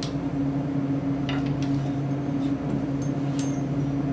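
Steady low hum throughout, with a few faint, light clicks of small parts being handled.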